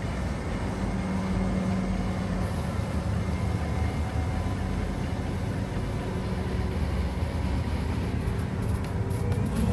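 1994 Ford F-150 pickup's engine running steadily, a low even hum.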